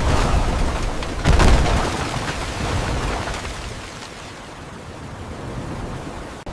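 Cinematic disaster sound design: a deep rumbling crash with a sudden heavy boom about a second in, then a rushing rumble that fades down over the next few seconds.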